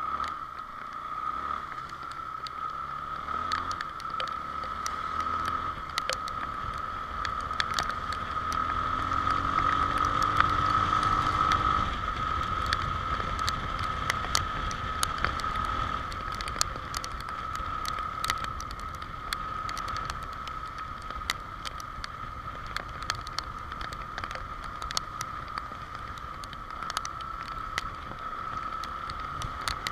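Honda XR Tornado single-cylinder motorcycle being ridden, its engine note rising for a few seconds about ten seconds in, under a steady high tone, with many sharp ticks of rain hitting the microphone.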